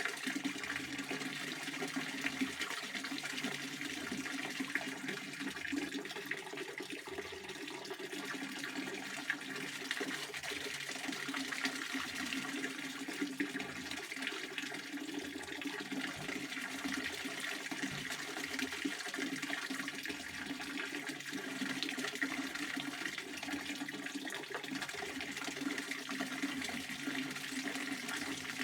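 Pond water fountain splashing steadily, a continuous rush of falling water.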